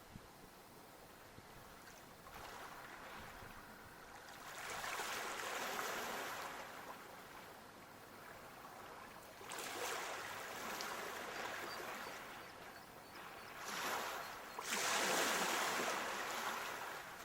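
Sea waves breaking and washing in, in slow surges of rushing noise about every four to five seconds; the loudest surge comes near the end.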